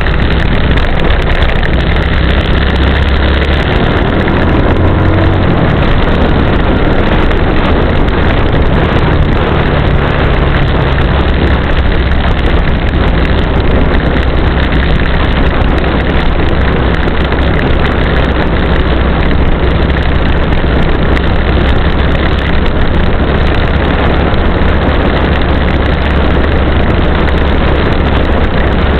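Strong wind buffeting the microphone: a loud, steady, deep rumble with a rushing hiss over it.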